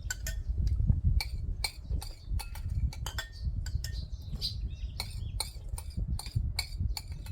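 Utensils clicking and clinking against a bowl while eating, in quick irregular taps over a low rumble, with small birds chirping.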